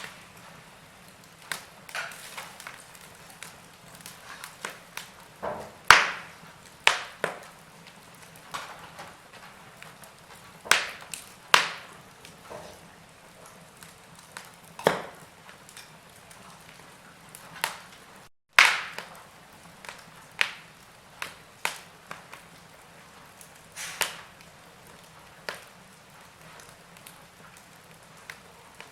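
Wood logs burning in a fireplace, crackling: irregular sharp pops and snaps over a low hiss, the loudest pop about six seconds in. The sound cuts out for a split second just past the middle.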